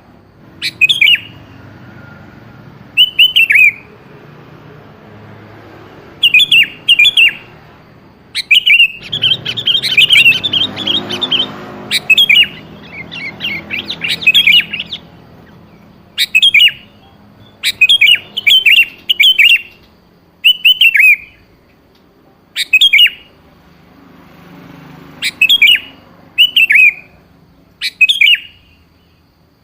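Sooty-headed bulbul (kutilang) singing, played as a lure recording: short, bubbly, falling phrases repeated every second or two, with a longer run of rapid chattering about nine to fifteen seconds in.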